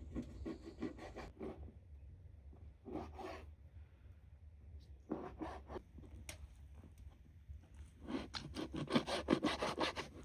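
Quick, rhythmic scraping strokes by hand, in several short bursts; the last and longest burst, near the end, is the loudest.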